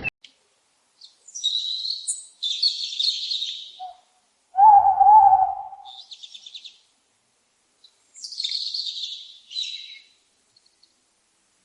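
Birds singing: several short, high, trilling song phrases separated by gaps, with one lower hooting call of about a second, the loudest sound, about five seconds in.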